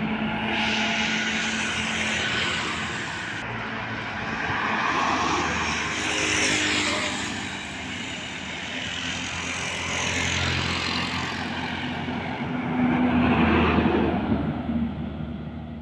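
Road traffic with heavy trucks going by: steady engine hum and tyre noise that swells several times as vehicles pass, then fades near the end.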